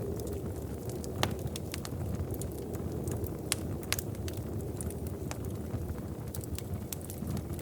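Wood fire in a fireplace crackling, with irregular sharp pops and snaps over a steady low rumble; the loudest pops come about a second in and again around three and a half and four seconds.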